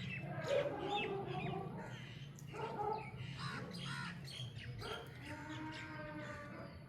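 Chickens calling, a run of short squawks and clucks over a steady low hum.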